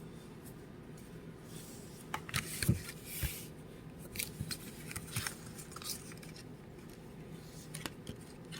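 Oracle cards being handled: scattered light clicks and rustles of card stock, loudest about two to three seconds in, over a faint steady hum.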